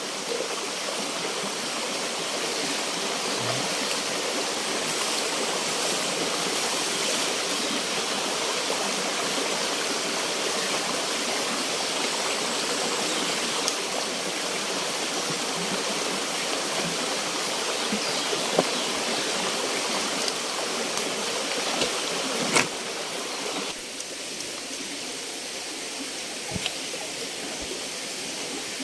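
Steady rush of a river flowing, turning somewhat quieter about three-quarters of the way through, with a sharp click just before.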